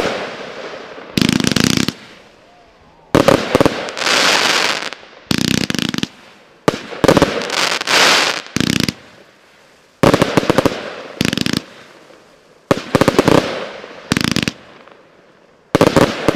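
Magnum 'Triple X' 281-shot fireworks cake firing in volleys: clusters of sharp bangs from the shots and star bursts about every one to two seconds, some trailing off in a fading hiss.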